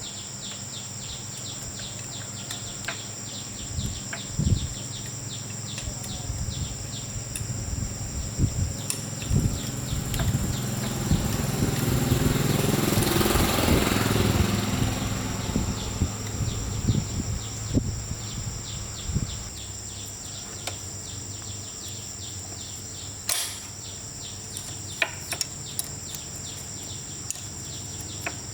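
An engine passing by, rising to its loudest about halfway through and fading away over several seconds, over a steady, fast-pulsing insect trill and a low hum, with scattered clicks and knocks.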